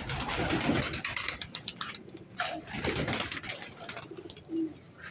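Domestic pigeons cooing, with noisy bursts of scuffling in between.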